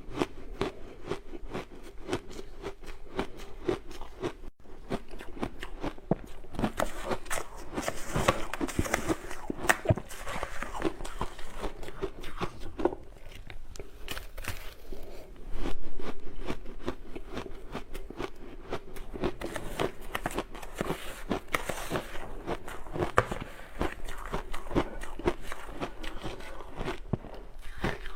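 Crunchy ice being bitten and chewed close to the microphone: a dense, continuous run of crackling crunches, with a louder burst about halfway through.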